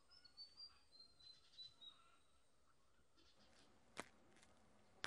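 Near silence with faint bird chirping in the background over the first two seconds, and one short faint click about four seconds in.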